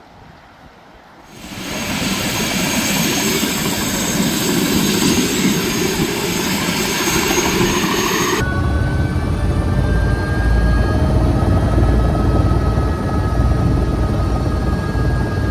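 Helicopter running: loud steady rotor and turbine noise comes in suddenly about a second in. About halfway through it switches abruptly to a deeper rumble with steady high whining tones on top.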